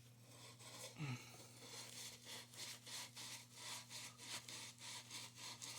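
A wire brush scrubbing back and forth inside a plumbing fitting to clean it for soldering, in quick scraping strokes about four a second that start about two seconds in.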